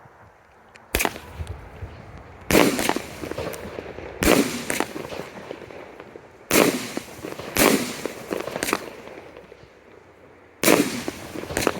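A 25-shot consumer firework cake firing its shots one after another, about seven in all, at uneven gaps of one to two seconds. Each shot is a sharp bang followed by a tail of smaller crackling pops as the effect breaks.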